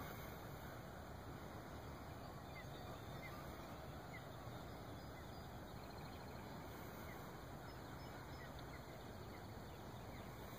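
A few faint, short bird calls over a steady, even background hiss of open air by calm water.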